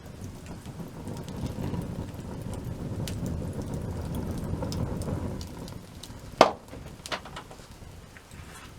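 Wood fire crackling, with scattered small ticks and one loud sharp pop about six and a half seconds in, followed by a smaller pop. For the first five seconds or so a low rumble swells and fades under it.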